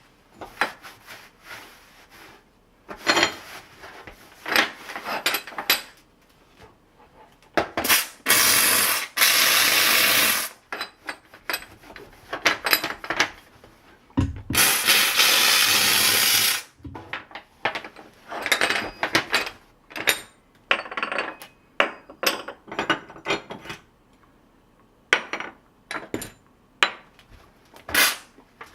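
Kärcher SC1 steam cleaner in use: a string of short clicks, knocks and rubs from handling the cleaner, broken by two long hisses of steam jetting out, each about two seconds.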